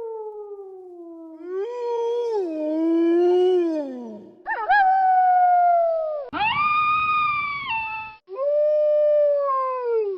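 Wolves howling: five long howls one after another, most sliding down in pitch at the end. The middle one is held higher and has a rough, raspy edge before it breaks off.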